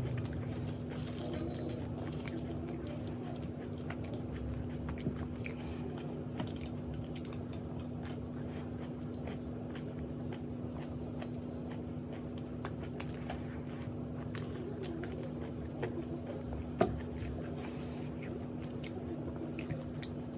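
Close-up chewing and biting of crunchy food, with many small crisp crunches over a steady low hum, and one sharp click about seventeen seconds in.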